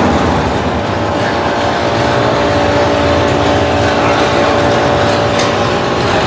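A motor vehicle running steadily, a continuous drone with a steady hum through it.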